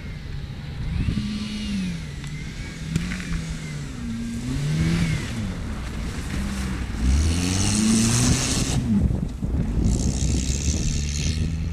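Suzuki Vitara's engine revving up and falling back again and again as it drifts on snow. Two loud bursts of hiss come in over it, one about seven seconds in and one near the end.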